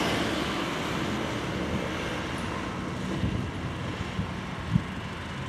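Motor drone fading slowly away, with wind buffeting the microphone in a few low thumps toward the end.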